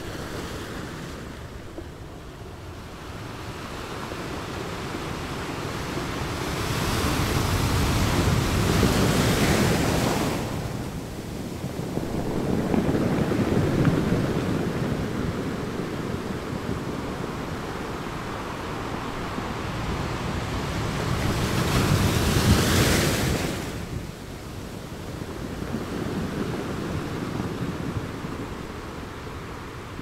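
Ocean surf: large waves breaking in a continuous wash of noise that swells and ebbs. The two loudest crashes peak about nine seconds in and about twenty-two seconds in, each dropping off quickly, with a smaller surge between them.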